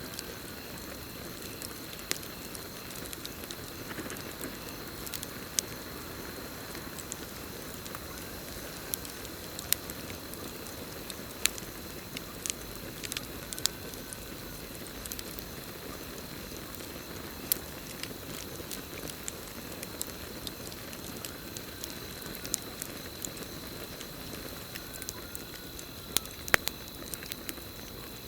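Campfire burning, with irregular sharp crackles and pops over a steady hiss, while crickets trill in one steady high tone.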